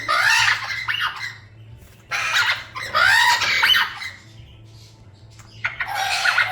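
Parrot squawking in three loud, harsh bouts: one near the start, a longer one about two seconds in, and another near the end.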